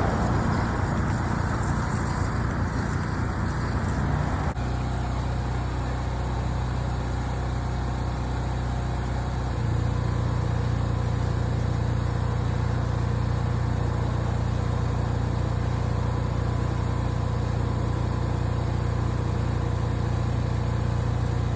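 An engine running steadily at a constant speed, a low, even drone. It changes abruptly about four and a half seconds in, and from about ten seconds in it settles into a fuller, deeper drone.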